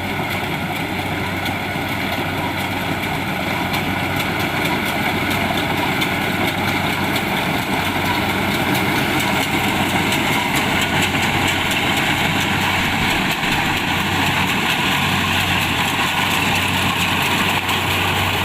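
Diesel engine of a Kubota DC-70 Plus combine harvester running steadily with the rattle of its machinery, getting a little louder over the first few seconds.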